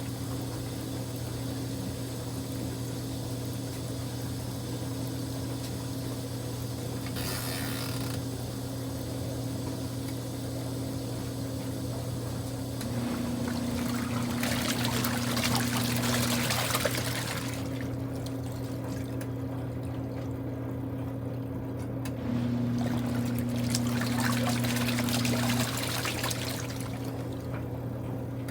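Kuppet portable washing machine with water in the tub: a short splash, then two stretches of about three seconds of water sloshing and pouring as the machine works. A steady low hum runs underneath.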